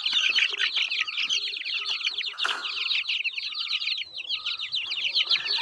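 A brood of chicken chicks peeping, many quick high chirps overlapping without a break. A brief rustle about two and a half seconds in.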